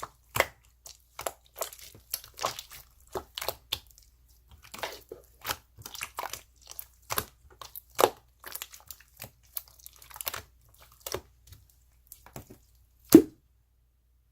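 Irregular crunching and crinkling handling sounds, with one louder knock near the end.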